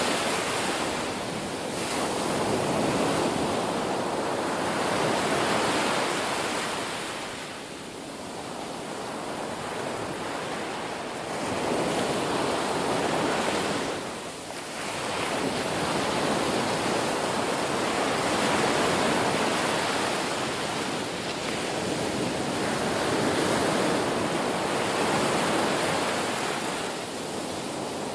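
Ocean surf: waves breaking and washing in, a steady hiss that swells and fades every few seconds.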